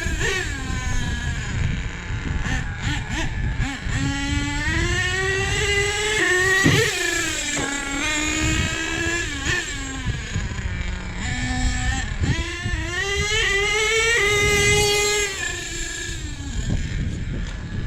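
Small nitro glow engine of a radio-controlled monster truck running hard, its pitch climbing and dropping again and again as the throttle is worked; the tune is running rich.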